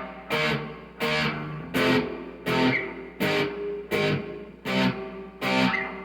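Electric guitar played through a pair of Fender Twin amps with a Digitech Bad Monkey overdrive, strumming chords. Each chord is struck sharply and left to ring, about every three quarters of a second.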